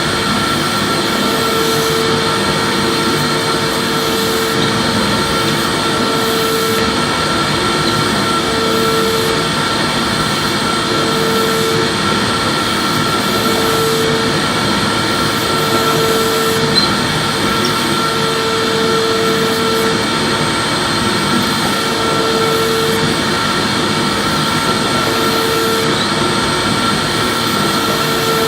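Vacuum cleaner running steadily with a constant rushing motor noise, and a humming whine that comes and goes every couple of seconds.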